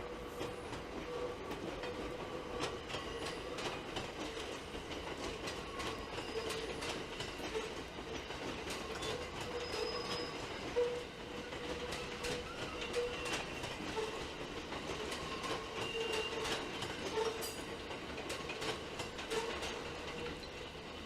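Train running along the JR Kyoto Line tracks: its wheels click again and again over the rail joints over a steady running noise and a low steady tone, with one louder knock about halfway through.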